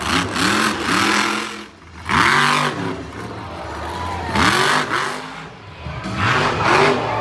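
Monster truck engine revving hard in about four separate bursts, its pitch climbing and dropping back with each throttle stab.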